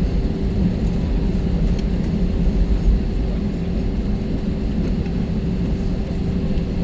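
Jet airliner cabin noise: the engines running with a steady low rumble and a constant hum tone.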